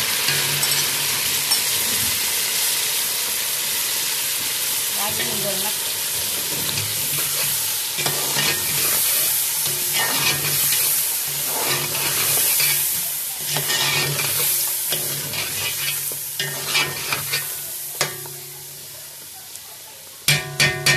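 Pieces of meat frying in hot oil in a pot, sizzling steadily, with a spoon scraping and stirring as tomato paste is worked in. The sizzle fades over the second half, and a few sharp knocks of the spoon come just before the end.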